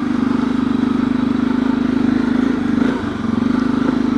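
Honda CRF250L's single-cylinder four-stroke engine running steadily under the rider, easing off briefly about three seconds in.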